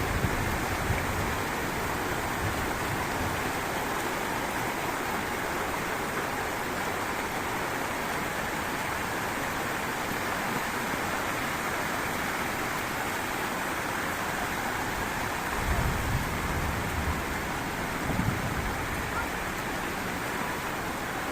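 Heavy rain falling steadily, an even dense hiss. Near the end come two brief low rumbles or thuds.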